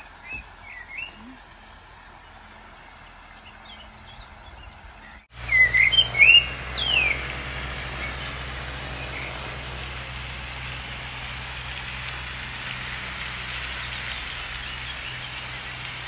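Small songbirds chirping in short rising and falling calls, a few faint ones at the start and louder ones about six to seven seconds in. A steady outdoor rush starts suddenly about five seconds in and carries on under them.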